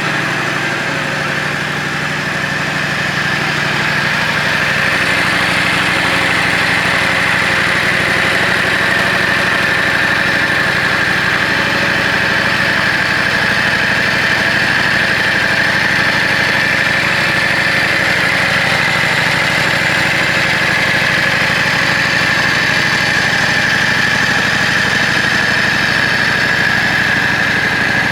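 Yamaha Drag Star 400's air-cooled V-twin idling steadily through an aftermarket muffler, getting a little louder a few seconds in.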